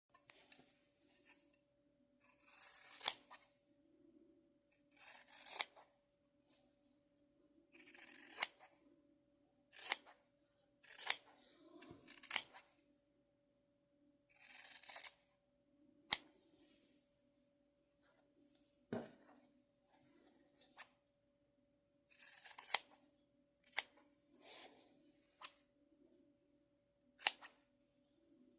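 Scissors cutting through fabric in separate, unhurried strokes, each a crisp rasping swish that builds and ends in a sharp snip as the blades close. There are about fourteen cuts with pauses between them, over a faint steady hum.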